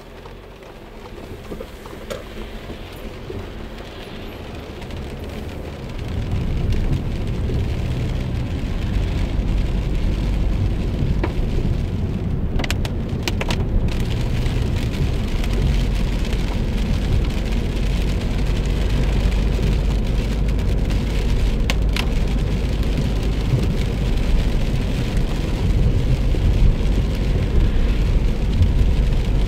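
Heavy rain falling on a car, with a low engine and road rumble that rises sharply about six seconds in as the car gets moving.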